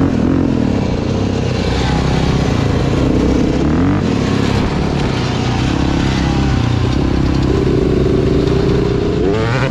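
Dirt bike engine under way on a trail ride, its pitch rising and falling again and again as the throttle is worked and the bike shifts, over a steady rush of noise.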